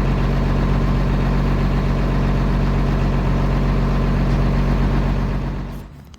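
International DT466 inline-six turbo diesel in a 1987 International S1900 dump truck, running steadily with a deep, even note. The sound fades away over about half a second near the end.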